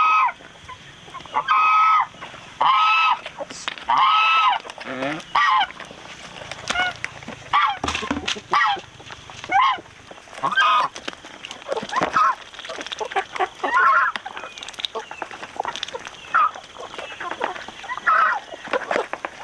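Farm fowl honking: a run of loud, evenly spaced honks about once a second, then many shorter calls crowding over one another.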